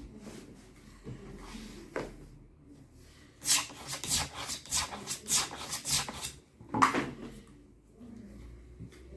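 Repeated hand scraping or rasping strokes in shoe repair, about three a second for a few seconds, followed after a short pause by one louder stroke.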